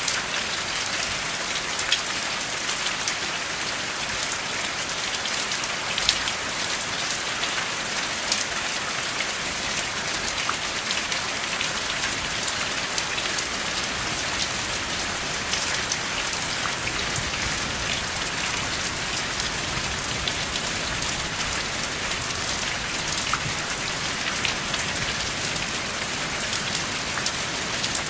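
Steady rain falling, an even hiss with sharp individual drop hits standing out now and then. No thunder.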